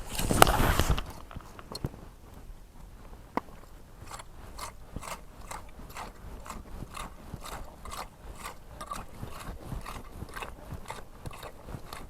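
Hand scraper raking through beach sand for clams in short, regular strokes, about two a second, with a gritty crunch of sand and shell. A louder scraping rush comes about half a second in.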